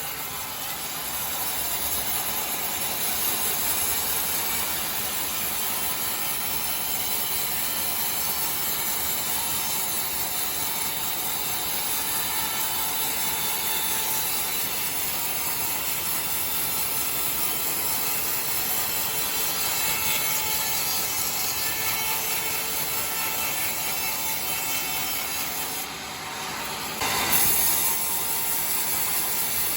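Sawmill saw cutting through timber: a steady, high, noisy cutting sound. It dips briefly near the end and comes back louder.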